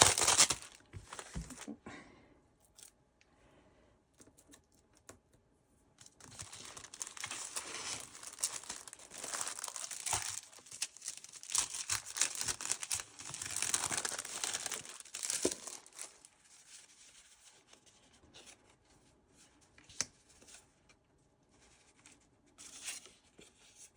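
Scrapbook paper and its packaging being handled: crinkling and rustling with small tearing sounds. There is a short burst at the start, a long busy stretch in the middle, then only a few light handling noises near the end.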